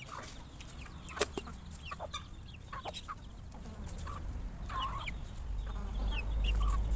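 A flock of chickens clucking and giving short calls, with a few sharp clicks, the loudest about a second in. A low rumble builds up in the second half.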